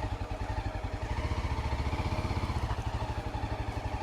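Yezdi Adventure motorcycle's single-cylinder engine idling steadily, with an even, rapid pulse.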